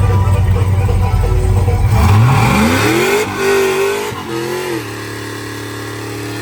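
A car engine revving. The pitch climbs sharply about two seconds in, dips, blips up again, and then holds at a steady raised speed.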